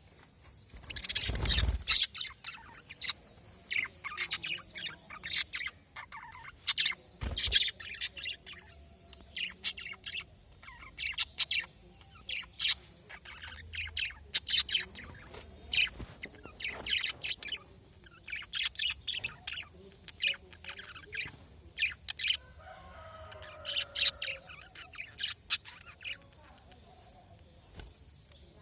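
Pet budgerigars chirping and chattering in quick, high calls all through, with a brief loud noise about a second in and a shorter one about seven seconds in.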